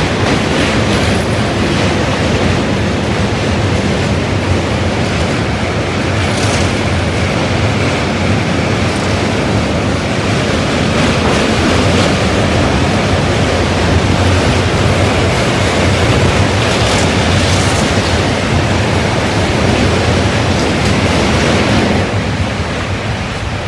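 MEMU electric passenger train running across a steel truss rail bridge, heard from inside the coach: a loud, steady rumble and rush of wheels on rails and air past the open window, with a few faint clicks. The noise eases slightly near the end as the train clears the truss span.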